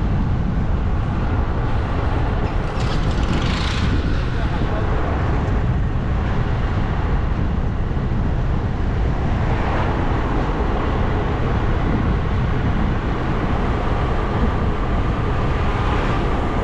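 Steady wind rushing over the microphone and road noise from a moving bike. Something louder briefly swells past about three seconds in, and again around ten seconds.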